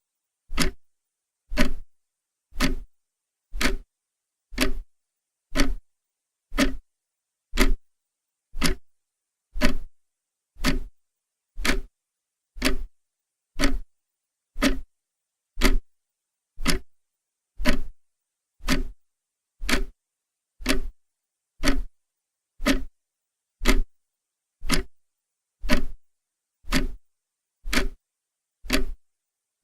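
Clock ticking steadily, one sharp tick about every second with silence between.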